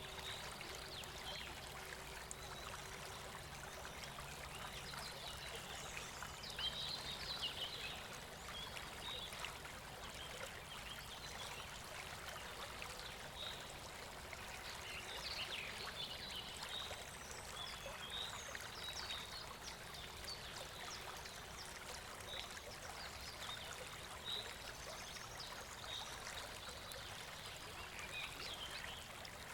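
Steady rush of running stream water, with scattered short high chirps and a few faint clicks.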